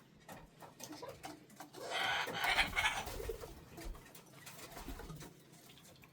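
A bird calling for about a second, a little under two seconds in, among scattered soft clicks and taps.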